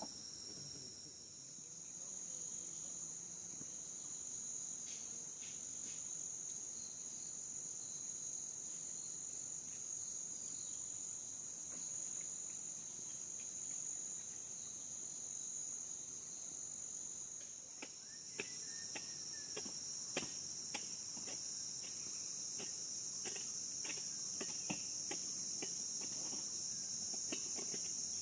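A steady, high-pitched chorus of insects trilling, like crickets, which swells a little over halfway through. From then on it is joined by scattered sharp clicks or ticks.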